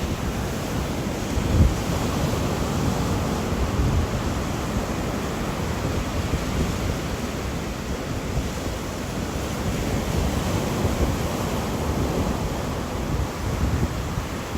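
Rain and wind: a steady rushing noise, heaviest in the low end, with a short low bump about a second and a half in.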